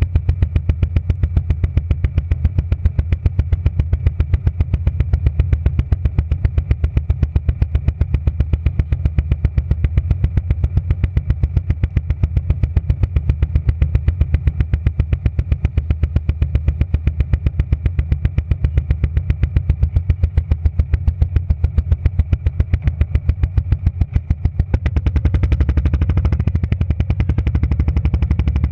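Motorcycle engine idling with a fast, even pulsing beat. About 25 seconds in it picks up and the bike pulls away, with road and wind noise coming in.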